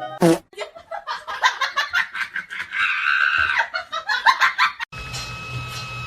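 A person laughing hard in quick, rapid bursts for about five seconds. It is cut off suddenly by a steady hum with a thin constant whine.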